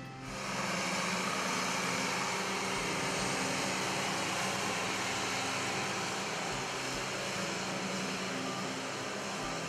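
International 986 tractor's turbocharged six-cylinder diesel engine running steadily, a constant drone with a hissing, fan-like wash over it.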